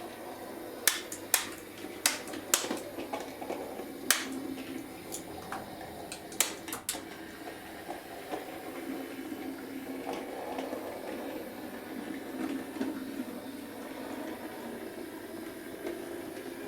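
Model Class 03 shunter running slowly on the track: a steady hum of its small electric motor and wheels on the rails, with a string of sharp clicks in the first several seconds as the wheels cross the rail joints and insulfrog points.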